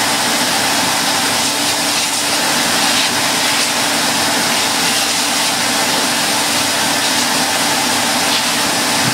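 A vacuum cleaner running steadily, a constant motor hum under the noise of rushing air, as it sucks up compacted dirt.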